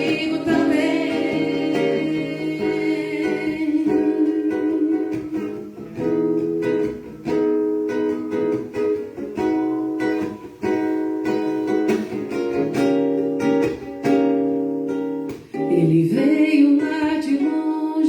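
Live acoustic music: a plucked-string instrument in the guitar family plays an instrumental passage between sung verses of a song, changing chords in steps.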